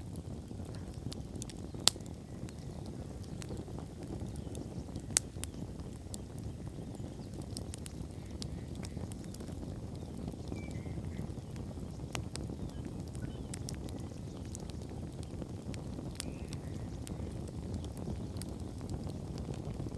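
Wood campfire burning: a steady low rush with scattered sharp crackles and pops, the loudest pop about two seconds in and another about five seconds in.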